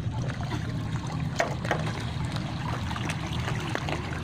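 Shallow floodwater trickling and splashing under a steady low rumble, with scattered small clicks and splashes.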